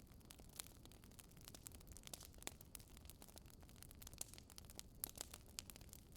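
Wood fire crackling softly: irregular small pops and snaps, several a second with a few sharper ones, over a low steady rumble.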